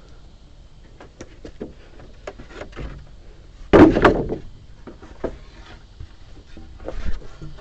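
Timber being handled in hand-tool carpentry: scattered light knocks of wood on wood, with one loud wooden clatter about four seconds in.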